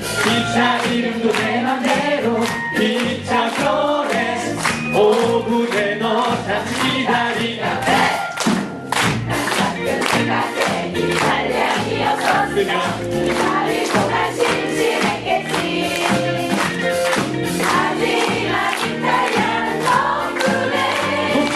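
Live musical-theatre song: band accompaniment with a steady beat and several cast voices singing together.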